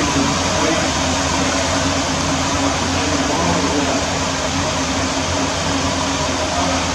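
Steady machine hum with a loud, even rushing noise over it.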